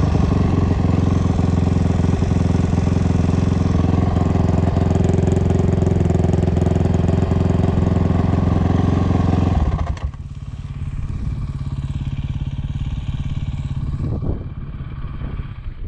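Dirt bike engine running steadily at a constant speed. Nearly ten seconds in it drops off suddenly to a much quieter, steady engine sound, which falls away further near the end.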